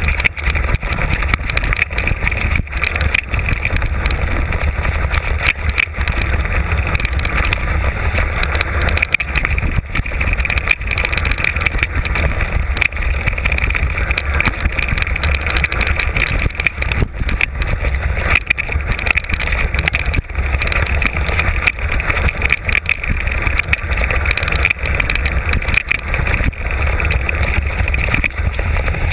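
Wind buffeting the microphone of a mountain-bike on-board camera during a fast downhill run, over the steady rush of tyres on a rough trail, with frequent clicks and knocks from the bike rattling over bumps.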